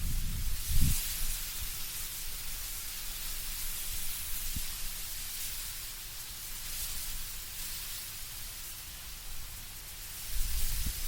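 Wind blowing through autumn trees, leaves rustling in a steady hiss. Low rumbling gusts come in at the start and again near the end.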